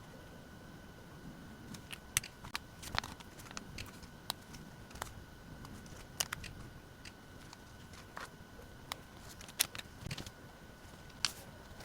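Irregular light clicks, taps and crinkles of paper and stationery being handled during diary decorating, over a faint steady high-pitched hum.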